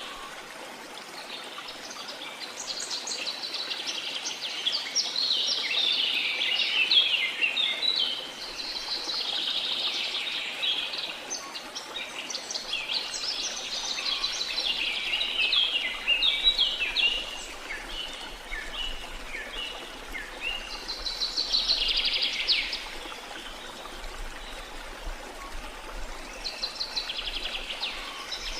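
Small songbirds singing in runs of rapid, high chirping notes, phrase after phrase, over a steady rush of sea water.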